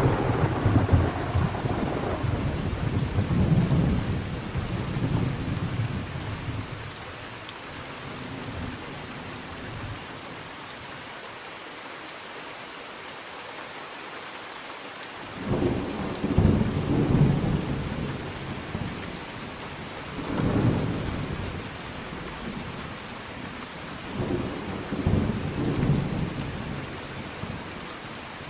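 Thunderstorm: steady rain with rolling thunder. A long rumble at the start dies away over several seconds, then after a lull in which only the rain is heard, a sudden peal about halfway through is followed by further shorter rumbles.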